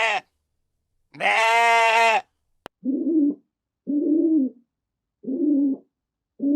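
A long, wavering bleat from a sheep or goat, then a click and four short, low hoots spaced about a second apart.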